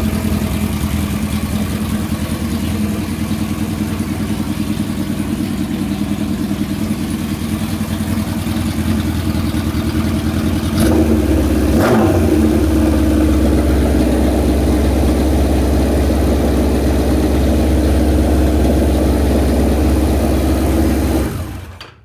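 1976 Kawasaki KZ900's inline-four engine idling steadily. About halfway through the idle rises and gets louder as the fuel supply runs out, and near the end the engine cuts off as the carburettor float bowls run dry.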